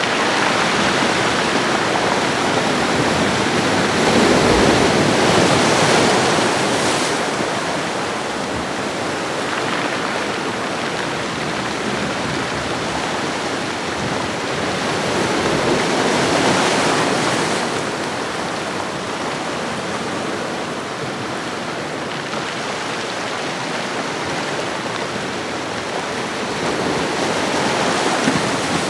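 Ocean waves washing onto a shoreline, a continuous rush of surf that swells and eases in slow surges about every ten seconds.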